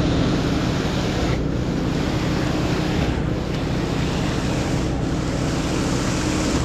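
Concrete pump truck running: a steady diesel engine under a loud rushing hiss that briefly dips about every second and a half to two seconds, in time with the pump's strokes.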